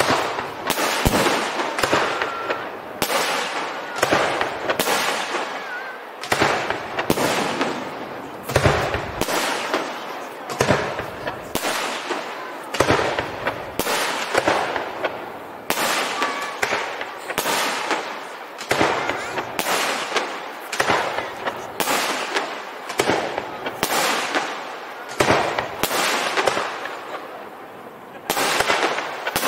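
Aerial firework shells bursting in quick succession, about one or two bangs a second, each trailing off, with a short lull near the end.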